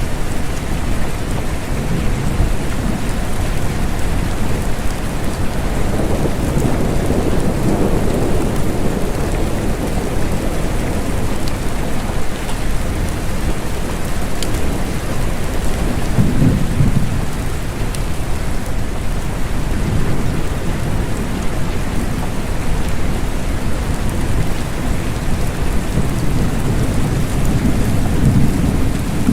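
Steady gentle rain, an even hiss, with low rumbles swelling up three times: about a fifth of the way in, past the middle, and near the end.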